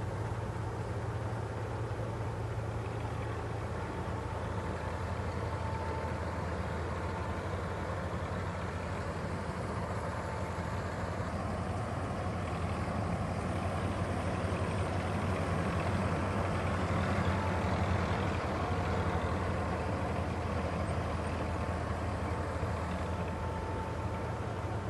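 Tractor engine running steadily with a constant low drone, growing slightly louder about two-thirds of the way through.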